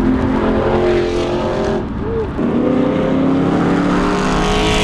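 Hemi V8 with a Flowmaster exhaust running loud with a steady note. It eases off briefly about two seconds in, then picks up again.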